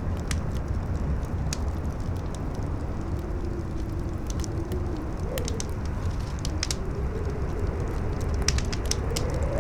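Campfire crackling with scattered sharp pops over a steady low wind rumble, while a howling wind tone slowly rises and falls in pitch, climbing near the end.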